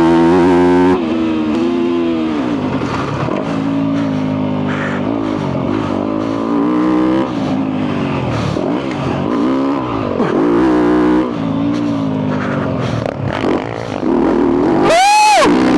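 2022 Yamaha YZ250F's single-cylinder four-stroke engine through a full FMF exhaust, revved hard and backed off again and again as the dirt bike is ridden fast. Near the end a sharp, high rev climbs and drops.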